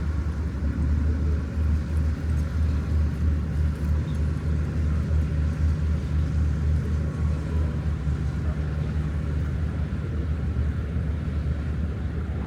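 Tour boat's engine running, a steady low rumble heard on board.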